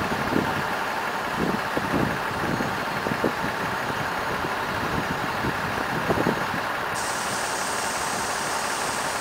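Passenger train rolling slowly past a station platform, heard from an open carriage window: a steady rushing noise with irregular low thumps.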